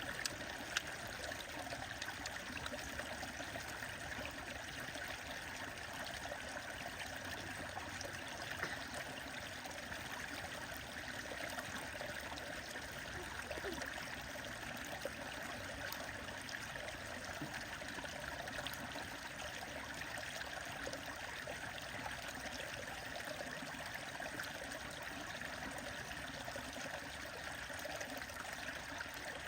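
A stream running steadily, with the faint scattered crackles of a bonfire beside it and one sharper pop about a second in.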